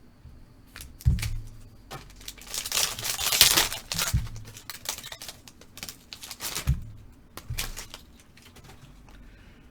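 A trading-card pack wrapper being torn open and crinkled, with a busy burst of rustling and clicking a few seconds in, and a few low knocks against the table.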